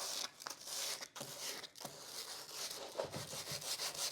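Sandpaper rubbing over the partly dry paint of an oil painting on canvas, in separate strokes with short pauses that turn into quick, short back-and-forth strokes about three seconds in.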